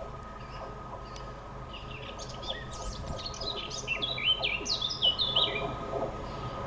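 A small songbird chirping in a quick run of short, sharp notes, starting about two seconds in and stopping about a second before the end, over a steady low hum.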